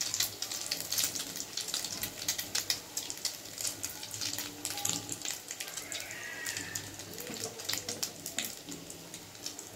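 Egg-dipped bread slice deep-frying in hot oil: a steady sizzle full of small crackling pops.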